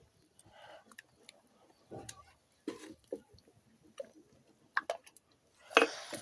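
Thick porridge being stirred in a cooking pot: irregular knocks and scrapes of the spoon against the pot and soft squelching of the thick mixture, with scattered small clicks. The loudest knock comes near the end.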